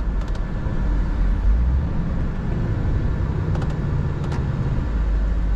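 Scania R 450 truck's 13-litre straight-six diesel engine running under way, heard from inside the cab with road noise as a steady low rumble. The engine note shifts in the middle and settles back near the end.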